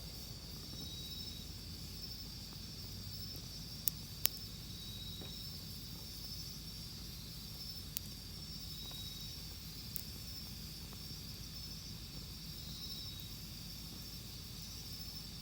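Wood campfire giving a few sharp pops: two close together about four seconds in, then one near eight seconds and one near ten. Insects trill steadily in the background throughout.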